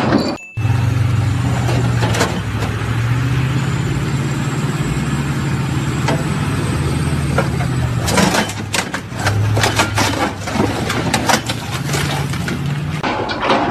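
A heavy engine running steadily with a low hum. About eight seconds in, a run of sharp knocks and clatter joins it.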